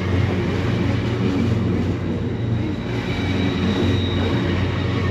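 A train running through a station, with a steady low engine hum and rumble.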